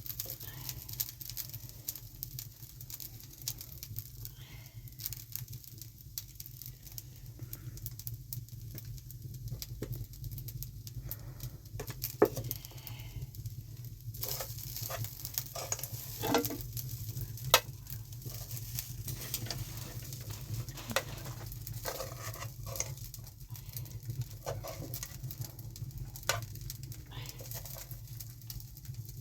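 Food sizzling in a pan over the fire, with scattered clicks and taps of stirring.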